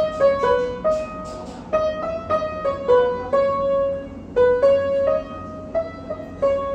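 Piano being played by hand: a simple melody of single struck notes, each ringing and fading before the next, over a steady room hum.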